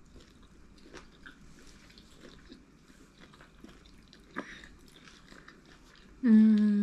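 Faint chewing and mouth noises of people eating lamb stew and sadza by hand, with a few small clicks. Near the end a person's voice sounds out briefly and loudly.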